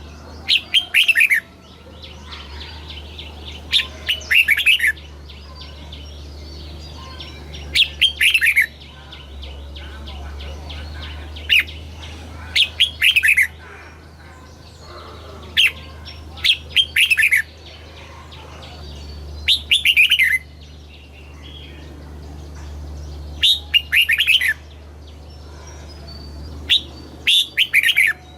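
Red-whiskered bulbul singing. It repeats a short, quick phrase of falling whistled notes about every three to four seconds, eight times, over a steady low hum.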